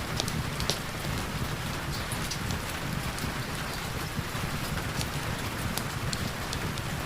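Steady heavy rain, with many sharp ticks scattered through it and a low rumble underneath.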